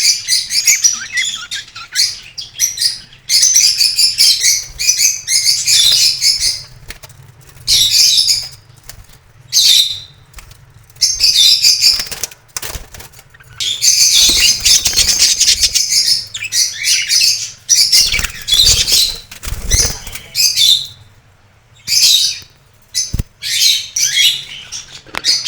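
Budgerigars chattering and warbling in quick, scratchy bursts that start and stop every second or two, with a few low thuds around the middle.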